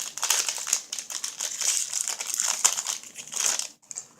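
Baseball card pack wrapper crinkling steadily as the pack is worked open and handled, stopping abruptly about three and a half seconds in, followed by a few faint clicks.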